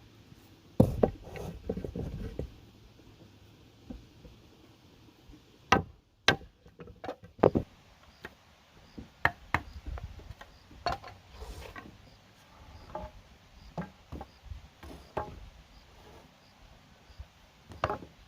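Irregular knocks and taps of wood and bamboo being handled and worked, with a heavy thump about a second in.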